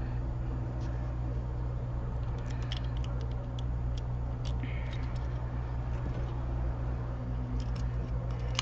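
Steady low electrical mains hum, with a scatter of faint light clicks and taps from small tools, a few clustered around the middle and again near the end.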